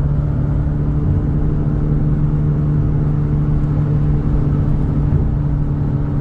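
Car engine running at a steady speed, a constant low hum with no rise or fall in pitch.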